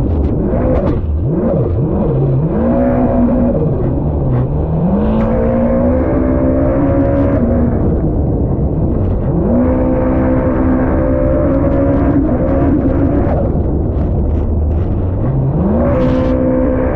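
Stock supercharged Yamaha SVHO engine in a race jet ski running under load, its revs dropping and climbing back several times as the throttle comes off and on, with a steady low rumble underneath.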